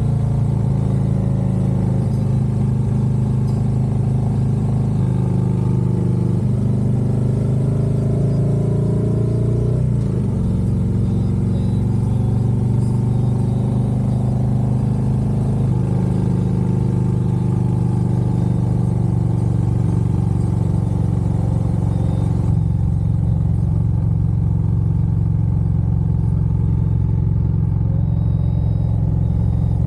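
Harley-Davidson Road Glide V-twin engine and exhaust under way, with wind noise. The engine note shifts up and down several times, dipping and climbing again about ten seconds in, then holds steadier.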